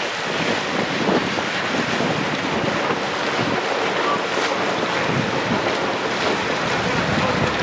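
Wind buffeting the microphone over water rushing past a sailboat's hull as it sails, a steady noise.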